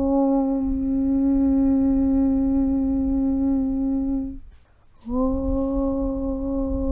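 A single voice chanting a long, steady 'Aum' on one low pitch over a low rumble. It breaks off for about half a second a little past four seconds in, as for a breath, then starts a new 'Aum' on the same pitch.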